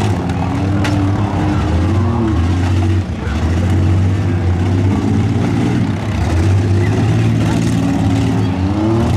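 Demolition derby vans and cars with V6 engines running and revving hard, the pitch rising and falling as they push against each other, with one sharp bang about a second in.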